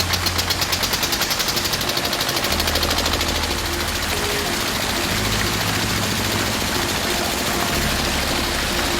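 Small model-tractor engine running fast and steady, having just sped up, with background music underneath.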